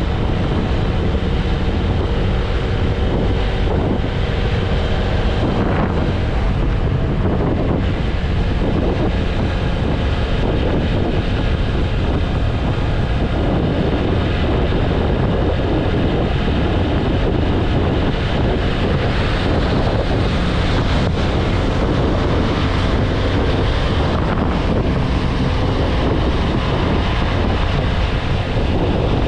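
Steady wind rushing over the microphone of a motorcycle riding at speed, with a TVS Apache RTR 160 4V's single-cylinder engine running evenly underneath.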